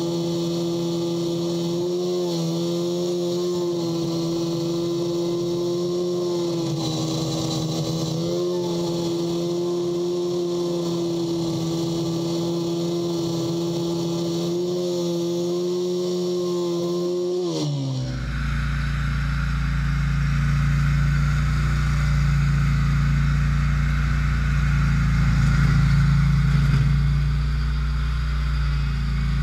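Lawn tractor's Briggs & Stratton engine running at a steady speed. About two-thirds of the way in, its pitch slides down and the sound switches suddenly to a heavier, louder low rumble with a hiss over it.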